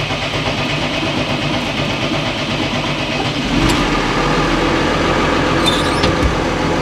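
A farm quad bike's engine idling steadily, just started after an oil and filter change, with the oil pressure not yet up. Its note changes about halfway through.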